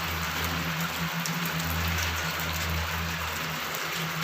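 A low, steady droning hum from the sky, swelling slightly in the middle, over a constant hiss. It is an unexplained sky noise that the man recording takes to come from the clouds and not from an aircraft.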